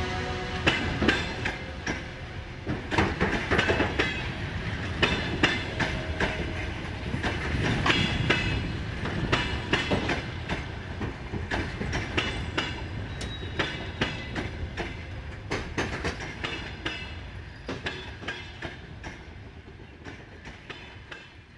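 Moving train's wheels clicking irregularly over rail joints and points above a steady rumble; the sound fades out gradually toward the end.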